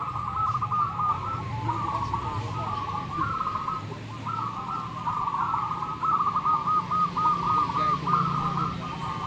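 Many zebra doves (perkutut) cooing at once: a dense, unbroken chorus of overlapping, rhythmic coos, over a low steady rumble.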